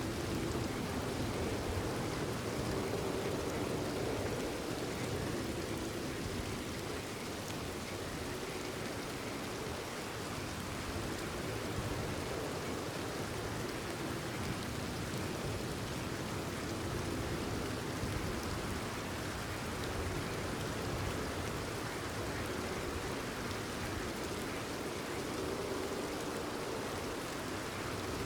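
Steady rain falling, a continuous even hiss of many drops.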